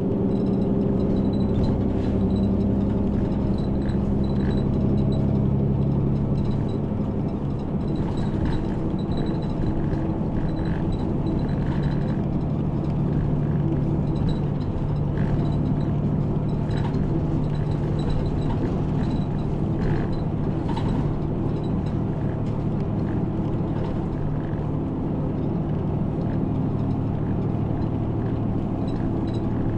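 A route bus's diesel engine running under way, with road rumble heard inside the bus; the engine note drops lower about 7 seconds in and holds steady, with occasional light rattles.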